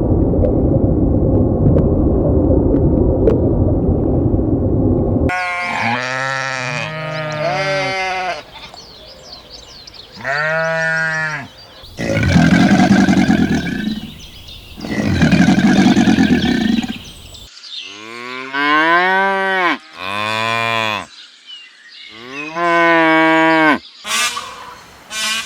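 Cattle mooing in a string of separate clips: a long, rough, low call at first, then single moos of about a second each that rise and fall in pitch, with sudden cuts between the clips.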